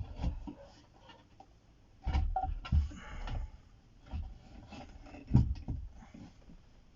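Hands handling the studio monitor's wooden cabinet and parts: rubbing and scraping with scattered dull knocks, a cluster of them about two to three seconds in and the loudest thump about five seconds in.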